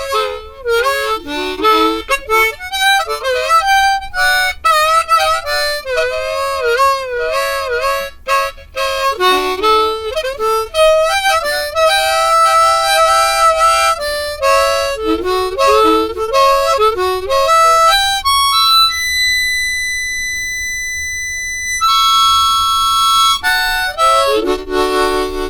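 Harmonica solo playing quick phrases with bent notes. Near the end it holds one long high note, then moves to full chords.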